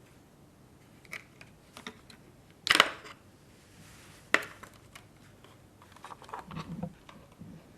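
Close-miked handling of small props for a mock robot repair: scattered light clicks and taps, a brief louder rattle about three seconds in, a single sharp click a second and a half later, then a cluster of soft rustling and tapping near the end.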